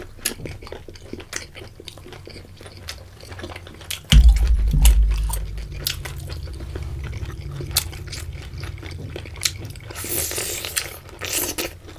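Close-miked eating sounds: small wet mouth clicks and chewing throughout, with a louder bite into a cooked octopus tentacle near the end. About four seconds in, a heavy low thump with a short low rumble after it.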